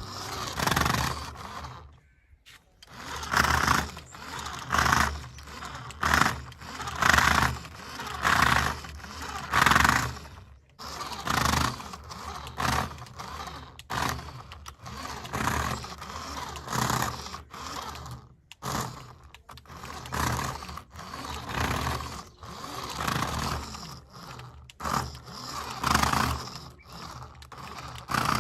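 Small electric motor of a remote-control toy car whirring in repeated short bursts, roughly one a second, with a brief pause about two seconds in.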